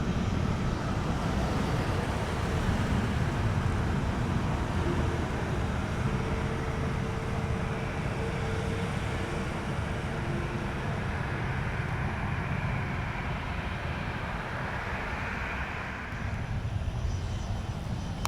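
Jet aircraft engines heard as a steady low rumble, with a higher hiss that swells and then drops away near the end.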